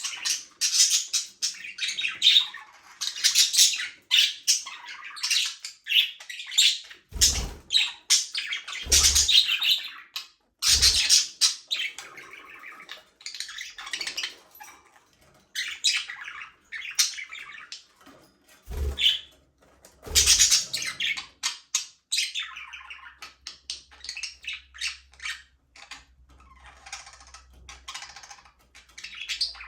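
A flock of budgerigars chirping and warbling, many calls overlapping without pause, with a few short low thumps.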